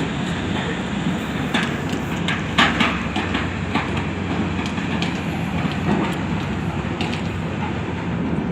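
A boat's engine running steadily with a constant low hum, with scattered short clicks and knocks over it.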